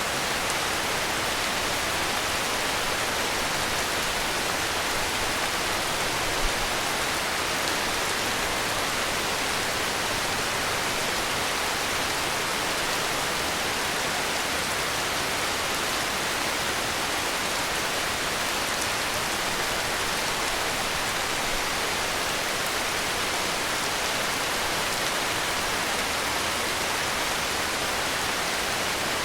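Heavy rain falling steadily, an even hiss of rainfall with no thunder, like white noise.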